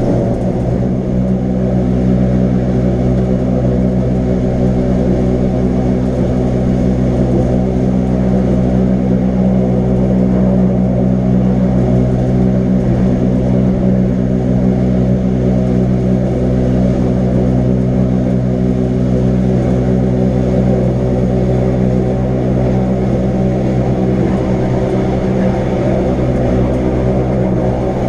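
Electric rack-railway train of the Wengernalpbahn running at a steady speed: a constant low hum with several steady tones that hold their pitch throughout.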